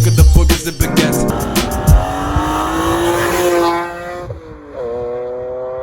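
Music with a heavy beat ends about two seconds in and gives way to an Infiniti G35's 3.5-litre V6, which rises in pitch and then eases off about four seconds in, then runs at a steady note.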